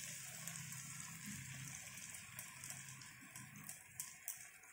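Faint sizzling and crackling of hot oil and masala in a kadai as a thick cashew and melon-seed paste is poured in, with a few small pops in the second half.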